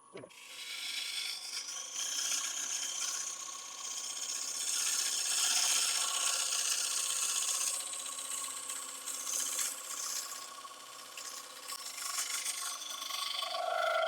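A gouge cutting a damson (cherry-family fruitwood) bowl blank spinning on a wood lathe: a steady hissing, scraping cut that swells and eases as the tool moves across the wood, over the faint hum of the lathe. The tool comes off the wood and the sound stops suddenly at the end. This is a further pass to try to turn away deep cracks in the wood.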